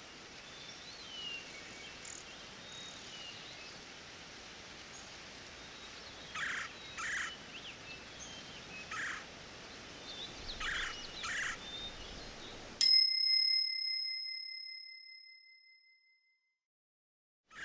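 Forest ambience with birds calling, a cluster of short calls in the middle, then a single high-pitched timer bell chime strikes loudly and rings out over about three seconds, marking the end of a timed interval.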